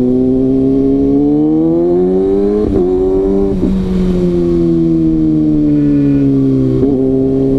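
Kawasaki ZX-6R's inline-four engine under way, revs climbing, then two quick upshifts about three seconds in, after which the revs ease slowly down.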